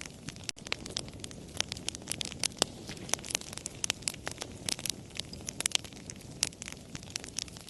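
Wood fire crackling, with dense, irregular sharp pops and snaps over a low steady hiss of burning. There is a momentary dropout about half a second in.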